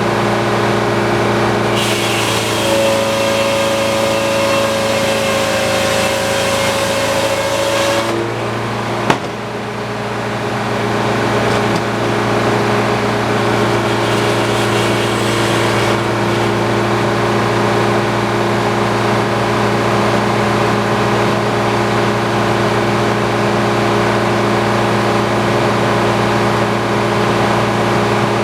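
Antique circular sawmill running with a steady drone from its power unit. From about two to eight seconds in, the blade cuts through a log, adding a hissing whine. A single sharp knock comes about nine seconds in.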